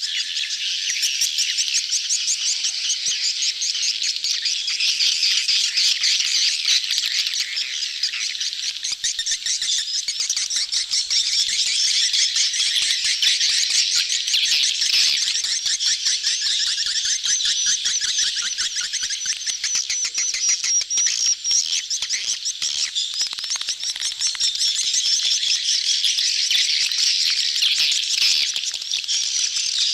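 A crowded swiftlet colony in mating chatter: many swiftlets twittering and trilling over one another without a break, with rapid fine clicking in the high calls. This is a swiftlet-house lure call.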